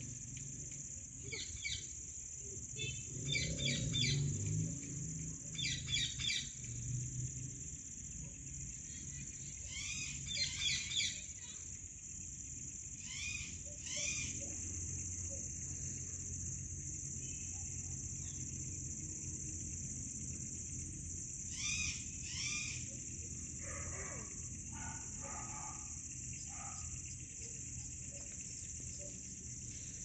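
Clusters of short, quick bird chirps come every few seconds over a steady, high-pitched insect drone. The chirps fade to softer, lower calls in the second half.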